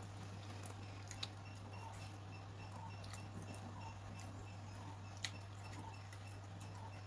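A person chewing food close to the microphone, soft chews recurring about once a second, with two sharp clicks, over a steady low hum.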